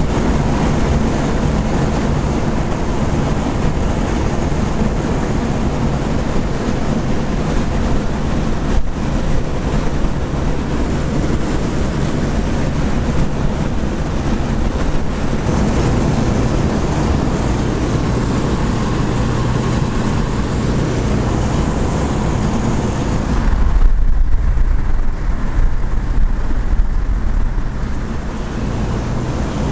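Classic muscle car driving at highway speed: a steady engine drone under heavy wind and road noise. Near the end the hiss fades and a louder, deeper rumble takes over.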